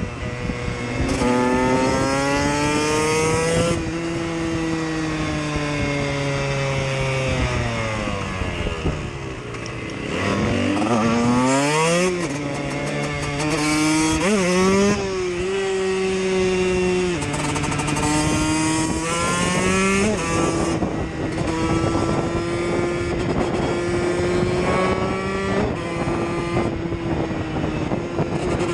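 Single-cylinder KTM EXC motorcycle engine under way: the pitch climbs in steps through the gears, drops away about eight to ten seconds in as it slows, revs sharply back up, then holds a fairly steady pitch with a couple of brief shifts.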